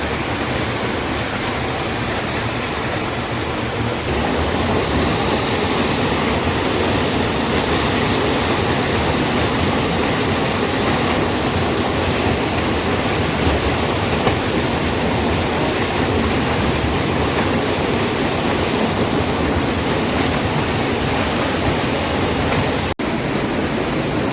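The Riyang river's flowing water, a loud steady rush. It grows a little louder about four seconds in and breaks off for an instant near the end.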